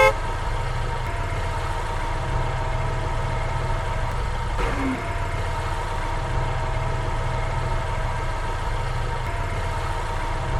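A vehicle engine running steadily: an even low rumble with a faint constant hum above it.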